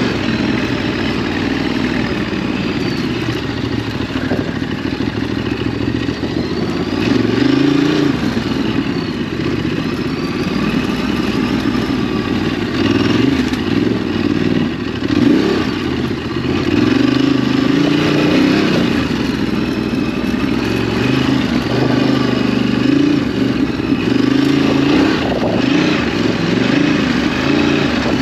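Ducati DesertX's 937 cc L-twin engine ridden on a dirt track, its pitch rising and falling again and again as the throttle opens and closes.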